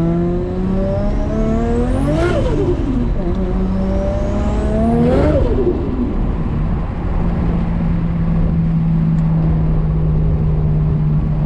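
Turbocharged Nissan RB25DET straight-six in an R33 Skyline pulling hard twice, its revs climbing and then dropping sharply at each gear change, with a high rising whistle from the hypergear turbo spooling under boost. It then settles into a steady cruise.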